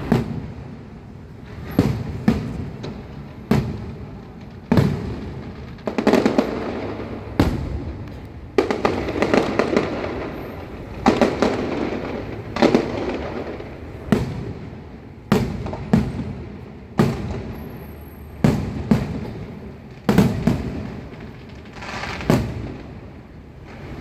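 Aerial fireworks bursting one after another, a sharp bang every second or two, each followed by a fading tail.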